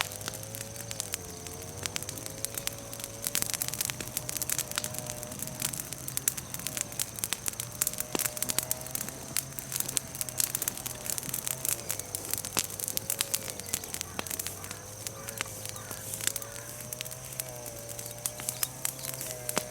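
Bonfire of freshly broken green chestnut-tree branches and leaves crackling and popping with dense, irregular snaps, over a steady low wavering hum.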